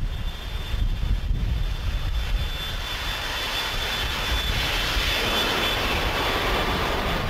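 Boeing 777-200's jet engines heard from the flight deck: a loud, steady rushing roar with a low rumble that builds and grows brighter from about three seconds in, as engine thrust comes up.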